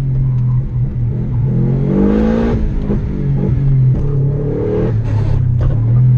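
Rally car engine heard from inside the cabin as the car drives through streets, its pitch rising and dropping back twice as it accelerates and eases off.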